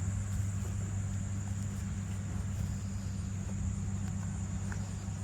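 Steady low hum of an engine or motor, with a continuous high insect trill from crickets running over it.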